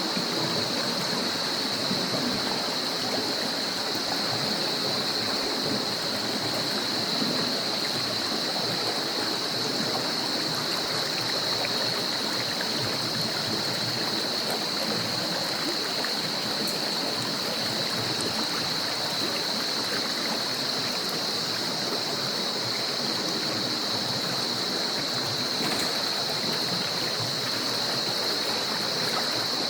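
Stream water rushing and splashing over rocks, a steady even rush. A steady high-pitched drone sits above the water sound.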